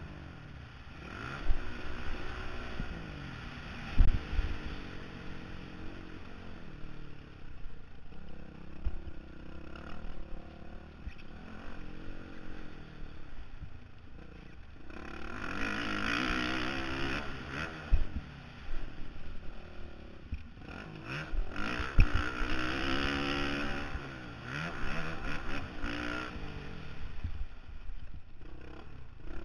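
Honda CRF450R single-cylinder four-stroke engine, heard from a helmet camera, revving up and falling back again and again as the bike accelerates, shifts and backs off around a motocross track. There are two longer full-throttle pulls and several sharp thumps from the bike hitting the ground. Wind rushes past the helmet.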